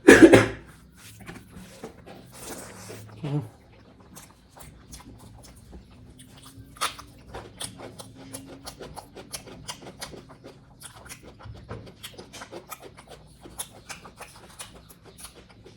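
Close-miked eating sounds: a person chewing pork curry and rice with wet mouth clicks and lip smacks, after a loud noisy burst right at the start.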